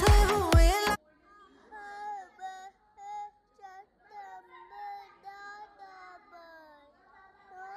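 Loud dance music with a steady beat cuts off suddenly about a second in. A high-pitched, child-like voice then sings softly in short gliding phrases.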